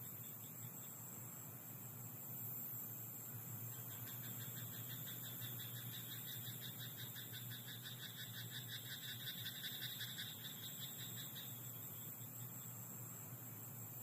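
A frog in a rice paddy calling in rapid pulsed trains: a short burst at the start, then a long run of calls from about four seconds in that stops near eleven seconds.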